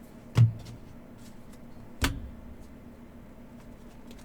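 Two sharp knocks with a dull thud, about one and a half seconds apart, the first the louder: trading-card packs and cards being set or tapped down on the table during a box break.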